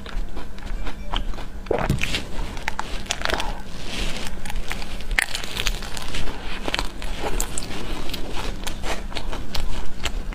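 A person biting into and chewing a chocolate-coated ice cream bar, the hard chocolate shell cracking and crunching in many irregular sharp clicks.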